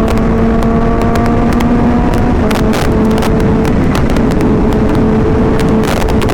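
Kawasaki Ninja H2's supercharged inline-four engine pulling at a fairly steady speed through a Vandemon exhaust while riding. A heavy rush of wind on the microphone, with crackling buffets, runs over the engine note.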